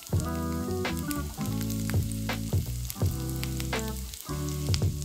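Diced onion and bacon bits sizzling in a frying pan while a silicone spatula stirs them, with several sharp scrapes and taps against the pan, over background music. The onions are being sautéed down toward caramelized.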